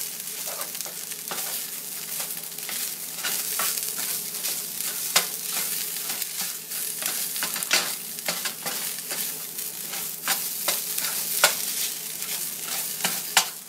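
Canned tuna sizzling as it fries in a 19th-century cast iron skillet: a steady hiss, broken by frequent sharp, irregular clicks and scrapes of a utensil stirring it against the iron.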